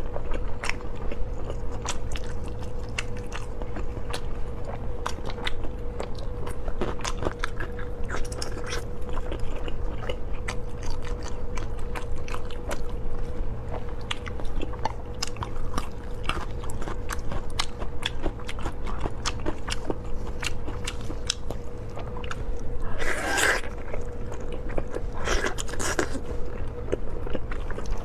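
Chewing and biting into pork skin rolls, with many quick, sharp mouth clicks and smacks. Near the end come two longer, louder noises. A faint steady hum runs underneath.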